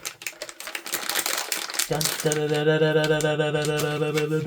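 Crinkling and tearing of a foil blind bag for about two seconds, then a person humming one long held note with a slight regular wobble.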